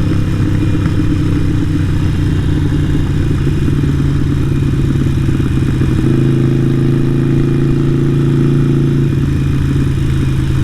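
Harley-Davidson Sportster 883 Iron's air-cooled V-twin running through a Vance & Hines exhaust while the bike is ridden. The engine note shifts about six seconds in, holds steady for about three seconds, then changes again.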